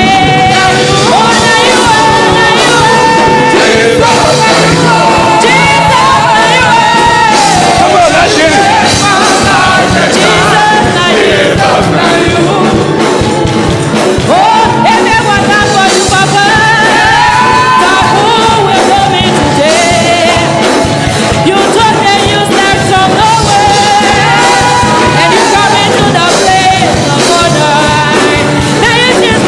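Gospel worship song: singing over instrumental accompaniment with a steady bass line, loud and continuous.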